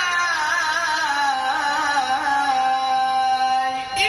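A male qari's solo voice in melodic Quran recitation (tilawah), holding a long ornamented melisma in a high register. The pitch wavers through runs, then settles on a steady held note. It breaks off briefly near the end, and a new note begins.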